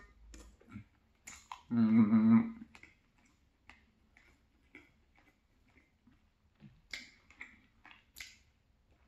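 Close-miked chewing and wet mouth clicks from a man eating rice and chicken 65, with a short hummed "mmm" about two seconds in. A few sharper clicks come near the end as a plastic bottle is handled.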